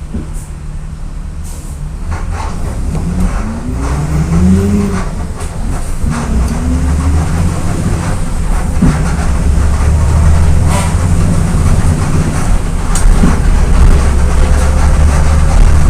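VolksBus 17.230 EOD diesel bus engine pulling under load. Its pitch rises twice in the first seconds as it works up through the lower gears of the 5-speed gearbox, then it settles into a loud, steady drone, with a few sharp rattles from the body.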